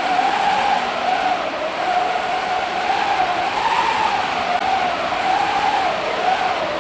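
Gale-force wind: a steady, loud rush with a whistling tone that wavers slowly up and down in pitch.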